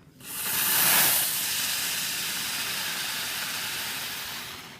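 Ground firework spraying sparks with a loud, steady hiss. The hiss flares up about a second in, holds for a few seconds, and dies away near the end.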